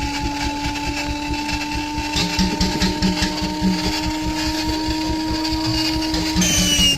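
Radial engine being cranked on its starter: a steady whine that rises slowly in pitch over a rapid, even mechanical clatter. Near the end the whine drops sharply as the sound changes, just before the engine starts.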